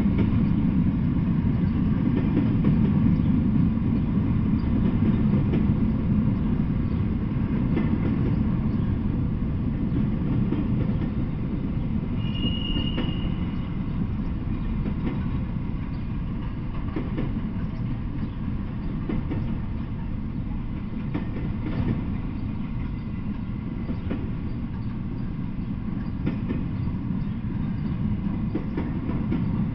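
Intermodal freight train of double-stacked containers on well cars rolling past: a steady low rumble of steel wheels on rail, with a brief high squeal about twelve seconds in.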